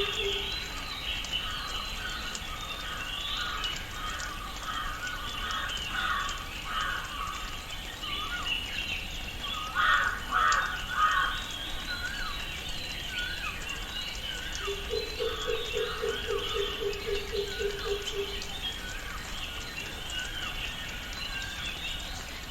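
Tropical rainforest ambience: many birds calling and chirping over one another, with a louder flurry of calls about ten seconds in. About fifteen seconds in, a low call repeats rapidly for about three seconds.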